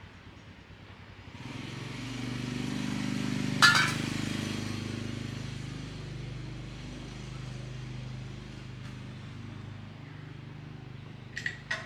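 A motor starts up and runs with a steady hum, with one sharp knock about four seconds in. It then runs on, slowly getting quieter, with a couple of clicks near the end.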